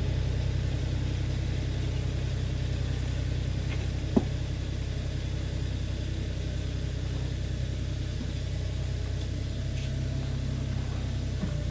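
Compact tractor engine running steadily as it works the ground. A single sharp click about four seconds in.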